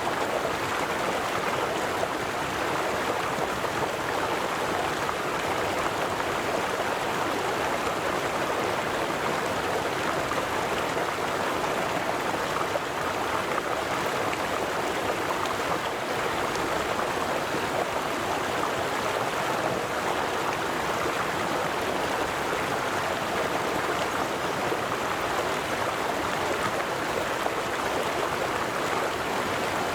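River water flowing steadily, a constant rushing and gurgling with no pauses or changes.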